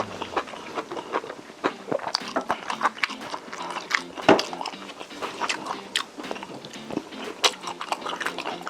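Close-miked chewing and wet mouth sounds while eating Korean braised chicken (jjimdak): many short, irregular smacks and clicks, with one louder bite about four seconds in.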